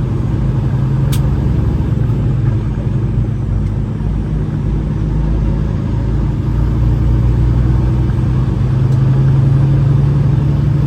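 Semi truck's diesel engine pulling under load as the truck gets under way: a steady low drone that grows a little louder in the second half.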